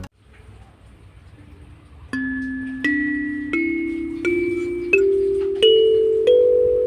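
Lingting K17A 17-key kalimba: after about two quiet seconds, single tines are plucked one at a time, about every 0.7 s, climbing step by step up a scale, and each note is left ringing.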